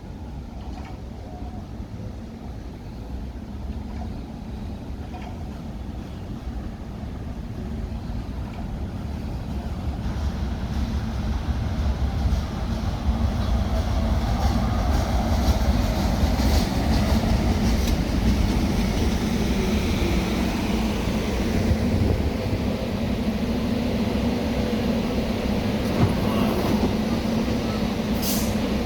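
Staten Island Railway electric train approaching and running past on the tracks. Its low rumble grows louder over the first half, then holds steady with a constant hum and occasional clicks of the wheels.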